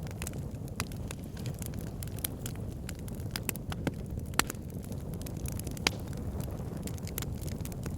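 Wood fire burning in a fireplace: a low steady rumble of flames with frequent irregular crackles and pops of burning logs, a couple of sharper pops standing out.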